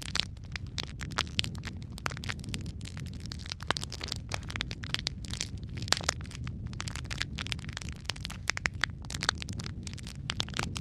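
Wood fire in a fireplace burning logs: a steady low rumble with frequent sharp, irregular crackles and pops.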